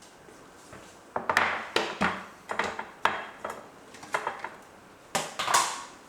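Dishes and kitchenware being handled: a run of sharp clinks and clattering knocks, in quick clusters, starting about a second in and stopping shortly before the end.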